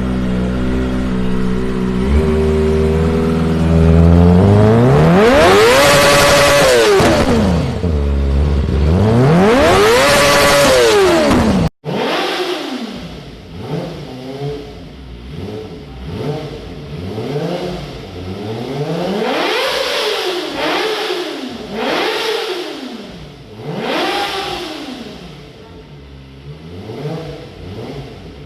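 Kawasaki ZX-25R's inline-four engine idling, then revved hard twice, pitch climbing high and falling back each time. After a sudden break about halfway, a quicker series of shorter, quieter rev blips follows.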